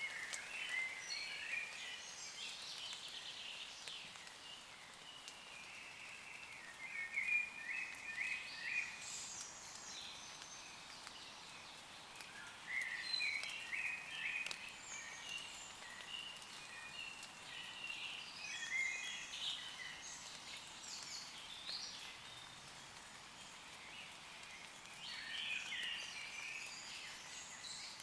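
Woodland birds singing in short, rapid phrases of chirping notes, about five phrases several seconds apart, over a steady hiss of light rain.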